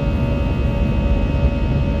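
Airbus A320 cabin noise during takeoff: the jet engines' steady drone with a deep rumble beneath and several steady whining tones.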